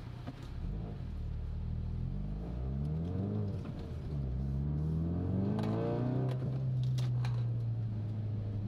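Car engine heard from inside the cabin on a circuit lap, its pitch rising and dropping several times as the driver works through the gears, then holding a steady drone from about six seconds in.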